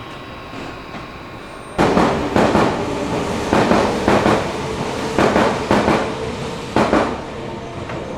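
A train running close by, its wheels clattering over the rail joints in a steady rhythm of about two knocks a second; it starts suddenly about two seconds in.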